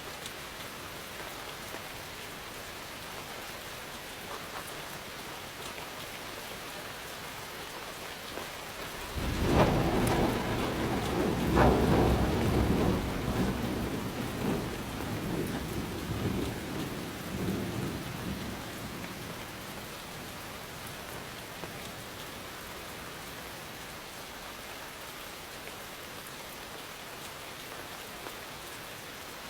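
Steady rain falling. About nine seconds in, a clap of thunder breaks out and rolls on, loudest for the first few seconds, then rumbling away over about ten seconds while the rain goes on.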